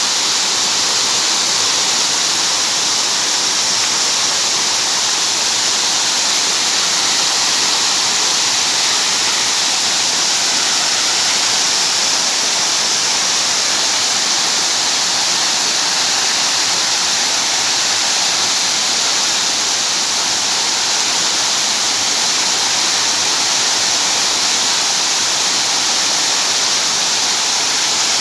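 Rain falling steadily: a continuous, even hiss with no breaks.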